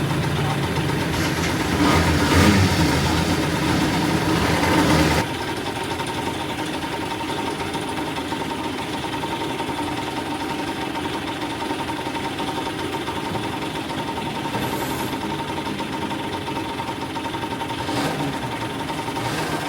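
Go-kart engines idling, swelling briefly about two seconds in; the sound drops abruptly about five seconds in, leaving a quieter steady engine hum.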